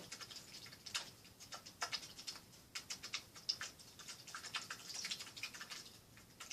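Stiff bristle brush dabbing and scrubbing oil paint onto a canvas: a quick, irregular run of soft taps and scratches.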